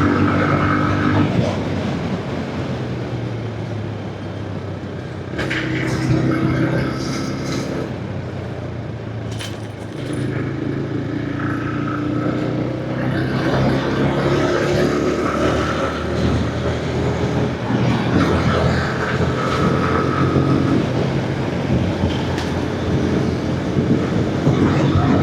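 Motorcycle engine running at road speed with wind noise over it, its note rising and falling as the bike speeds up and eases off.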